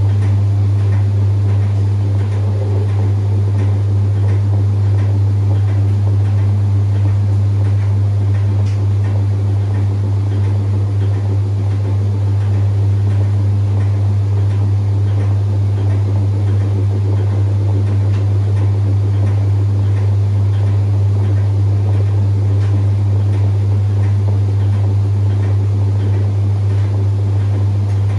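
Whirlpool top-loading washing machine running steadily in the last part of its delicate cycle, most likely the final spin: a loud, even low motor hum with faint ticking over it.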